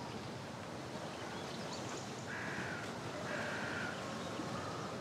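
A bird calling twice, about a second apart, each call about half a second long, over faint steady background noise.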